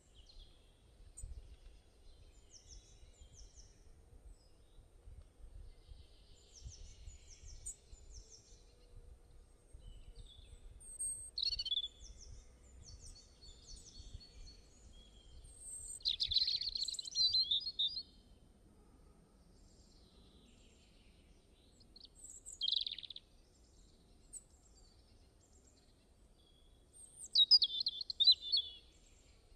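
Songbirds chirping and singing in short phrases at irregular intervals, several voices overlapping, with louder trilling bursts near the middle and again near the end. A faint low rumble sits beneath them.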